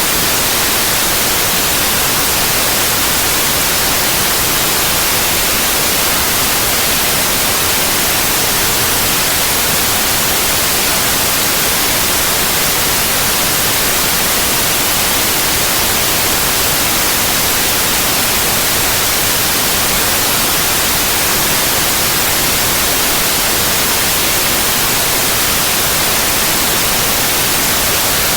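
Steady electronic white noise: an even, unchanging hiss spread across all pitches, strongest in the high treble.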